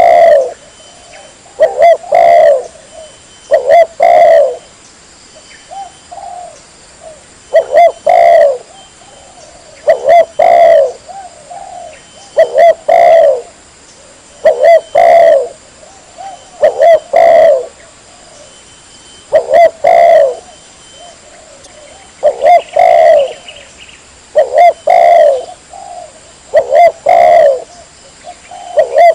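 Spotted dove (tekukur) cooing loudly in repeated phrases, one about every two seconds: a clean, persistent song of the kind used as a lure call.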